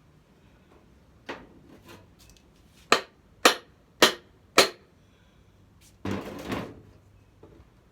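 Four sharp taps about two a second, knocking on the metal gas-tank bracket of a Tecumseh 6.5 hp engine to work it loose, followed about six seconds in by a short scraping rattle.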